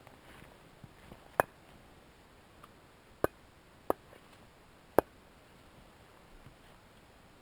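Small hatchet chopping at a piece of dead wood whose outer layer is damp: four sharp strikes at uneven intervals, with a couple of faint knocks before the first.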